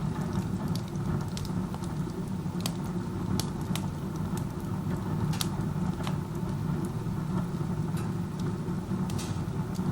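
Wood stove burning with its door open like a fireplace: a steady low rush of chimney draft drawing air hard through the firebox, with scattered crackles from the burning wood. The draft is so strong that the burn wastes heat up the flue.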